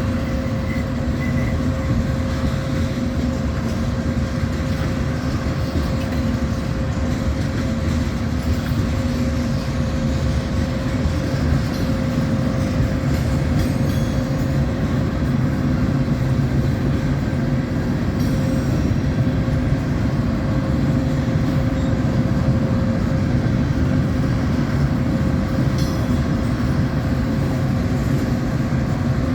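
A freight train carrying new cars rolls steadily past, with a continuous rumble and a steady hum that holds at one pitch throughout.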